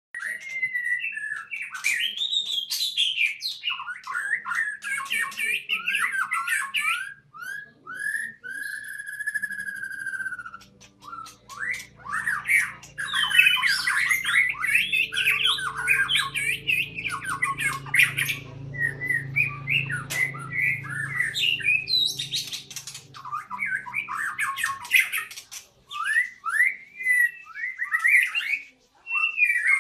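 White-rumped shama singing a long, varied song of rapid whistles, slurred notes and chattering phrases, broken by short pauses. A faint low hum runs underneath through the middle of the song.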